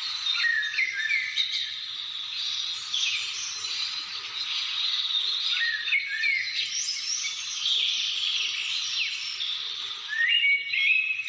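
A dense chorus of many birds singing and calling at once. One nearer bird gives short stepped whistled phrases about a second in, again around six seconds, and loudest near the end.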